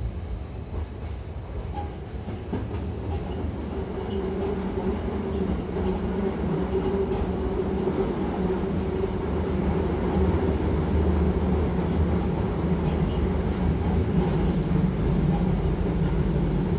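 Hankyu Kobe Line electric train heard from inside the car at the doors: the steady rumble of wheels on rail with a low hum, growing gradually louder, and occasional faint clicks over rail joints.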